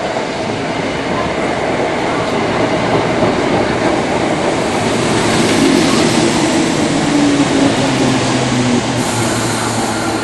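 Class 317 electric multiple unit running through the station: a steady rumble of wheels on rail. In the second half a low whine drops slightly in pitch as the train slows.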